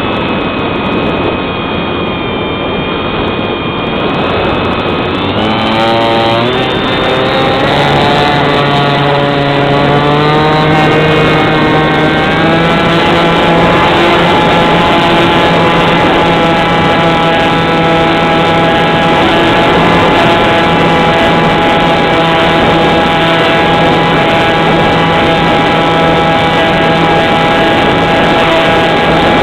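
A spinning machine's whine that rises in pitch from about six seconds in to about twelve seconds, then holds a steady pitch.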